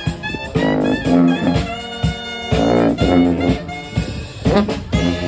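A brass band playing a jazzy tune live, with horns playing a rhythmic line over a drum beat.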